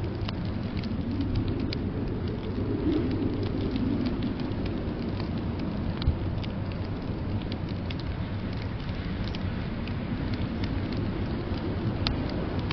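Wood fire crackling in a fireplace, scattered small pops with one sharper pop about six seconds in, over a steady low rumble of blizzard wind.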